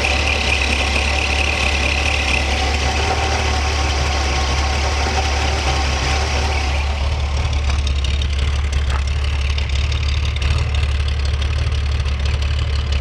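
1966 Corvair's air-cooled flat-six engine idling steadily at about 800 RPM. It is a solid idle: the intermittent stalling and rough running are cured.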